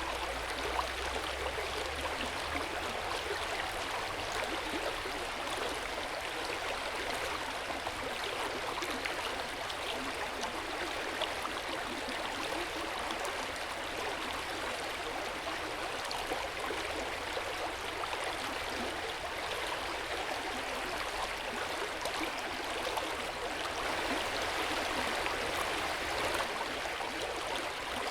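Hot-spring water flowing steadily at an open-air bath, an unbroken splashing and trickling that swells slightly near the end.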